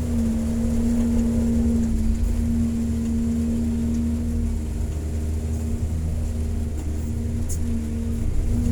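Excavator's diesel engine running steadily with a low rumble, and a hum on top that swells and fades every second or two as the machine works.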